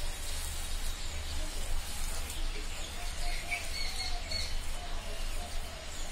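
Steady low hum and room noise, with a few short bird chirps about three to four and a half seconds in.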